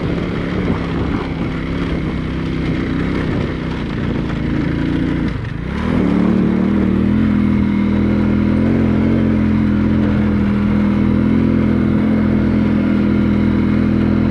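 A motor vehicle's engine running under way. Its pitch briefly drops and climbs again a little over five seconds in, after which it runs steadier and louder.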